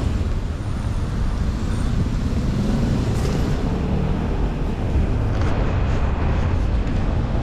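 City street traffic: cars running past with a steady low rumble and road noise.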